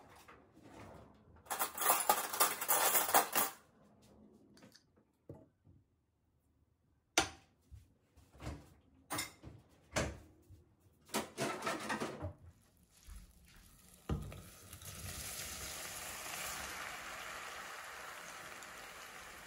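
Kitchen clatter of dishes and cutlery being handled: a loud burst of clinking about two seconds in, then scattered knocks and clicks. A steady hiss starts about two thirds of the way through and holds.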